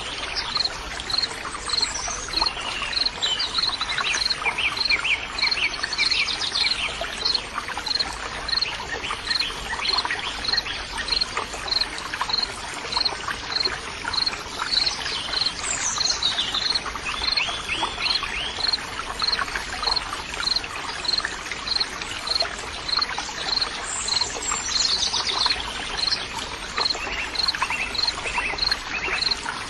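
Nature soundscape: songbirds singing in short trilled phrases, with a high chirp repeating steadily about once a second, over a continuous rush of running water.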